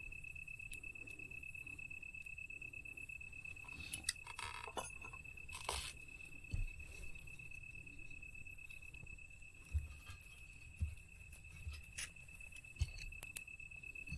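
Night insects trilling steadily in one high, even tone, with a fainter, higher hiss above it. Scattered soft knocks and a brief rustle about four to six seconds in.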